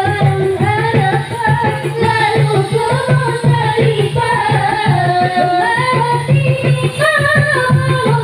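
Marawis ensemble performing: hand drums beat a quick, dense rhythm under a sung melody that winds and bends in pitch.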